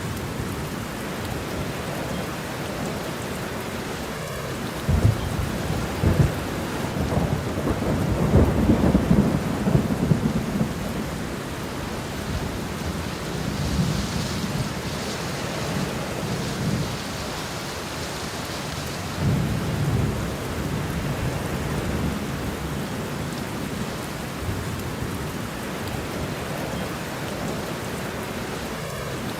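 Steady rain with rolling thunder. A low rumble builds about five seconds in and is loudest around nine seconds, and softer rumbles follow in the middle of the stretch.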